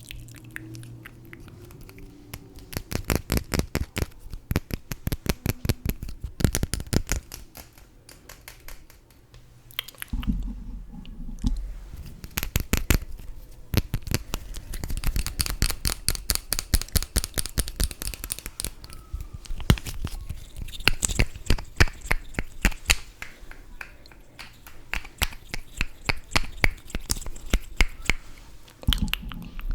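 Close-miked scratching and tapping in quick runs of short, sharp strokes, several a second, broken by brief pauses.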